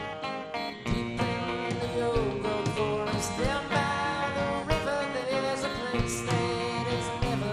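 Country-style band music with strummed and plucked acoustic guitar and a wavering melody line over it.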